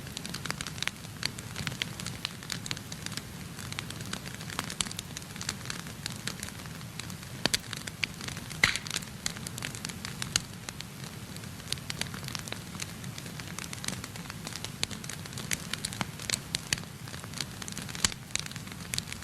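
Wood fire burning in a fireplace: a steady low rumble of flames with frequent irregular crackles and pops, a few of them louder.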